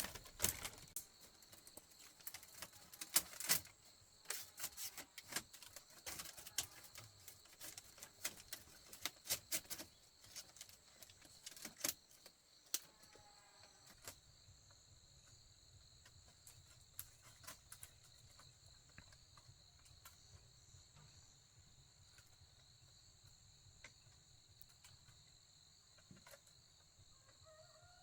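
Irregular light knocks and clicks for about the first twelve seconds, then insects chirring steadily on two high pitches.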